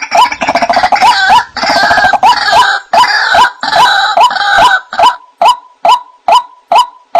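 White-breasted waterhen (ruak-ruak) calling: a steady run of short, hooked "wak" notes, about two a second. For the first five seconds a harsh, dense chorus of overlapping calls lies over them, and after that the notes stand alone.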